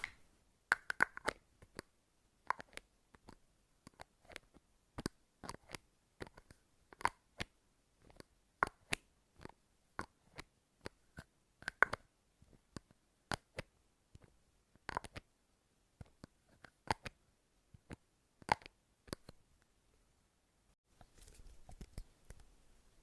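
Close-up ASMR trigger sounds: irregular sharp clicks and taps, a few with a brief ring, then a short rustle near the end.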